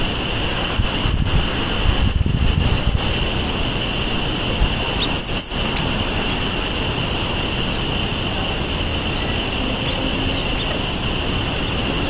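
A few brief, high bird chirps, two together about five seconds in and another near the end, over steady outdoor background noise with a constant high-pitched hum.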